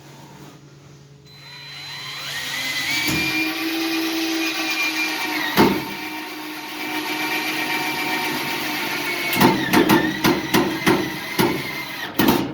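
Electric drill motor winding up and running steadily with a high whine, briefly dipping in pitch about five and a half seconds in. Near the end comes a run of sharp clicks before it stops.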